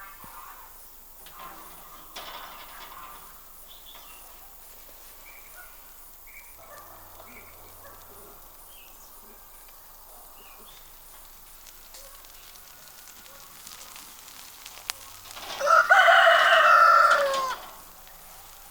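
A rooster crowing once, a loud call of about two seconds near the end. Faint short bird chirps come before it.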